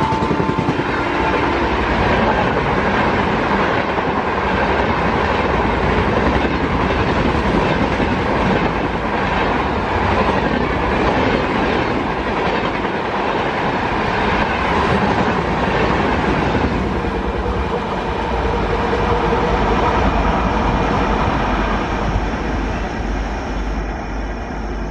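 A superfast express train of LHB coaches passing at high speed close by: a loud, steady rush of wheels with a clickety-clack over the rail joints, falling away near the end.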